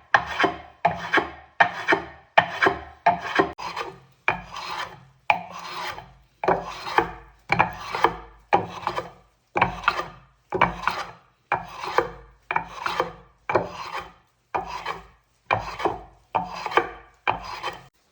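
A hand tool scraping wood in repeated rasping strokes, a bit more than one a second, each stroke a short sweep that fades before the next.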